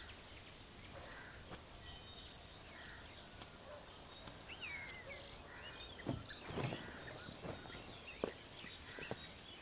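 Faint outdoor ambience with scattered bird chirps and short whistled calls, and a few soft knocks about six to seven seconds in.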